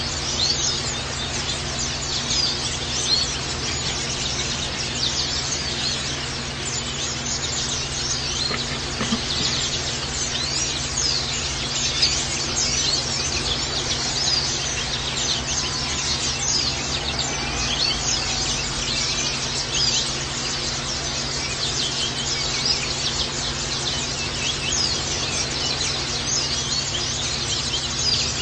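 A flock of white-eyes (pleci) twittering without pause, many quick high-pitched chirps overlapping one another, over a steady hiss.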